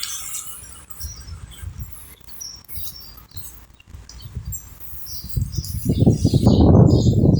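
Wind buffeting the microphone in uneven low gusts, swelling into a strong, loud gust about five and a half seconds in. Small birds chirp in short bursts over it.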